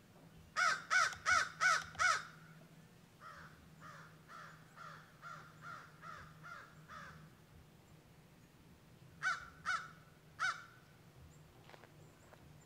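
A bird calling: five loud calls in quick succession, then a quieter run of about eight calls, then three more loud calls near the end.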